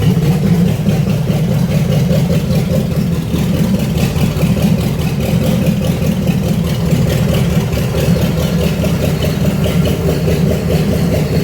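Cadillac Coupe DeVille's V8 engine running loud and steady with no exhaust system fitted, freshly started for the first time with its ignition timing not yet set.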